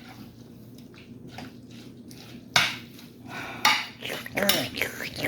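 Kitchen utensil clattering against cookware: faint clicks, then two sharp knocks about two and a half and three and a half seconds in, with more clatter toward the end.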